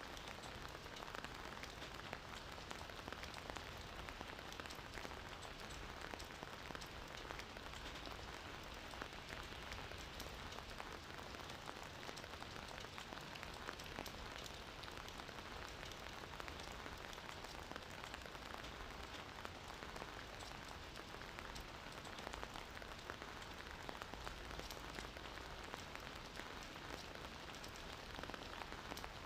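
Steady gentle rain falling, an even hiss with many small drop patters.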